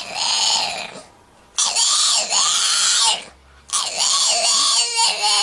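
A dog vocalising in three long, wavering yowls, one after another with short pauses between them.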